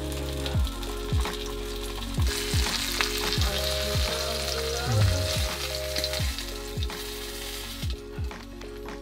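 Panko-crumbed abalone sizzling in oil in a frying pan. Background music with a steady beat plays under it. The sizzle drops away near the end.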